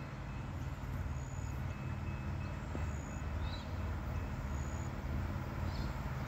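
Distant diesel passenger railcar approaching along the track, a low steady rumble, with a few short high chirps over it.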